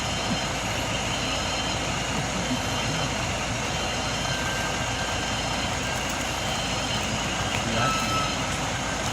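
Truck engine running steadily, with faint voices in the background.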